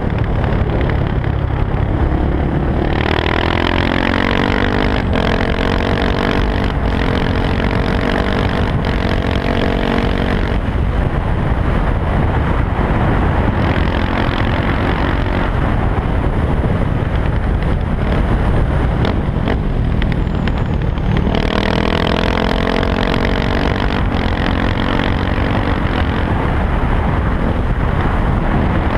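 KTM 690 SMC R supermoto's single-cylinder engine running through an Arrow exhaust with the dB killer removed, the revs rising about three seconds in, falling off around ten seconds in, and rising again after about twenty seconds.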